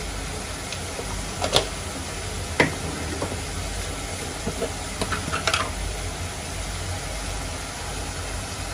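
Tomato-onion masala sizzling gently in an aluminium kadai on a gas stove, over a steady low hum. Kitchen utensils clink sharply a few times: once near the start, again about a second later, and in a quick cluster around the middle.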